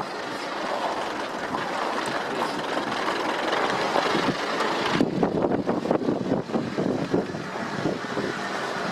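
A van driving slowly along a narrow, rough mountain road: steady engine and tyre noise, with a run of small knocks and crackles from about halfway through.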